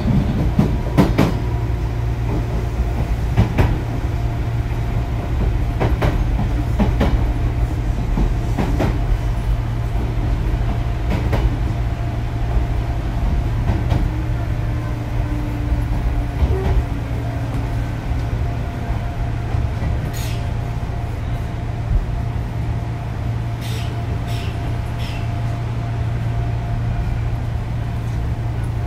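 Onboard running sound of an Odakyu 8000 series chopper-controlled electric train: a steady low hum with wheels clicking over rail joints every couple of seconds. The clicking thins out after about twelve seconds.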